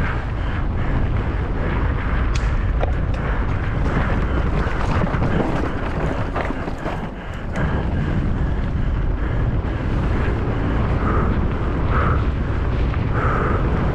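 Wind buffeting the microphone of a mountain bike rider's camera during a fast descent, a steady rush with scattered clicks and knocks from the bike over rough ground.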